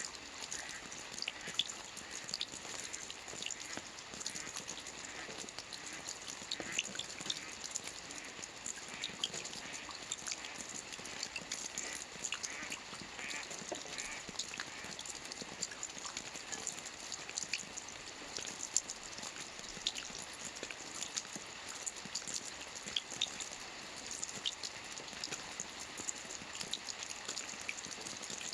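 Rain falling on a lake: a steady patter of drops on the water, with many small separate drop ticks.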